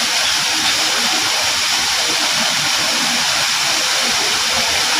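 Waterfall cascading: a steady, loud rush of falling water.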